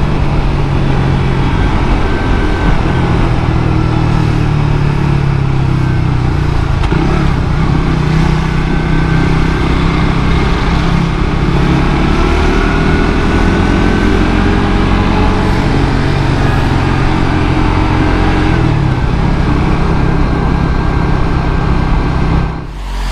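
Suzuki GSX-R150 single-cylinder engine running through its stock exhaust while riding, its note rising and falling with the throttle, over a steady rush of wind noise. The sound dips briefly near the end.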